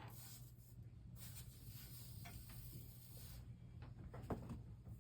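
Faint wiping on a stained glass piece as it is cleaned up, heard as two stretches of soft hiss, with a few light taps over a low steady hum.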